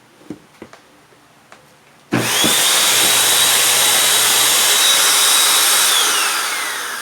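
A few light clicks, then about two seconds in a vacuum cleaner's motor is switched on, spinning up fast to a steady loud high whine with a rush of air. Near the end it is switched off and winds down, the whine falling in pitch as it fades. The motor starting and stopping on command shows the repaired switch now works.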